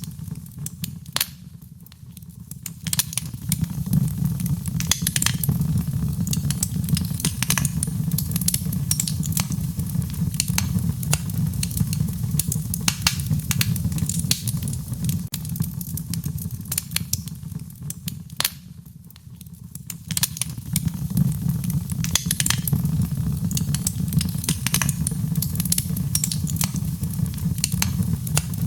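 Wood fire crackling and popping, with many sharp snaps over a steady low rumble of burning. It quietens briefly twice, about two seconds in and about two-thirds of the way through.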